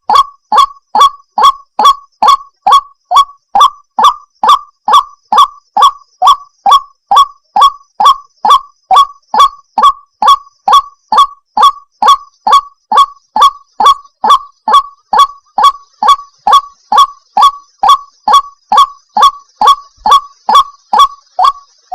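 White-breasted waterhen (ruak-ruak) lure call: a steady, unbroken series of short, loud 'wak' notes, about two and a half a second, each dropping slightly in pitch.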